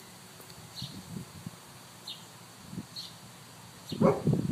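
A small bird chirping in a garden: four short, high, falling chirps about a second apart over faint rustling. A much louder sound breaks in about four seconds in.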